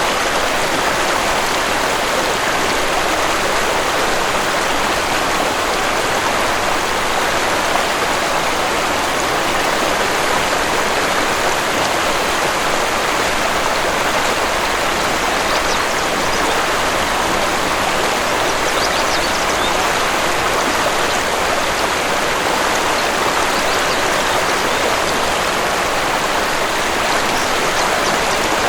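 Waterfall water rushing steadily: a constant, even hiss of falling and splashing water that does not change.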